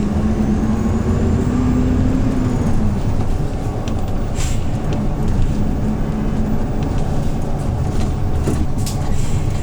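Engine and running noise of a Hyundai New Super Aero City CNG city bus: a steady low rumble with a humming engine note that climbs slightly over the first three seconds, then drops away, returning for a couple of seconds midway. A few faint clicks sound over it.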